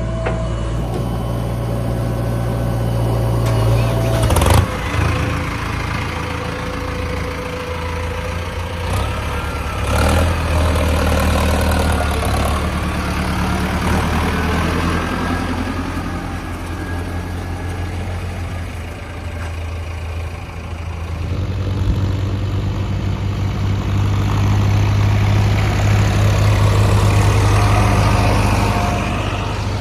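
Tractor engine running steadily, getting louder about two-thirds of the way through, with a sharp knock a few seconds in.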